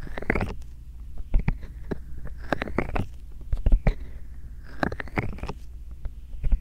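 Bare hands rubbing and massaging a binaural microphone up close, in slow repeated strokes about every two and a half seconds, each a rising swish with small clicks and a low rumble.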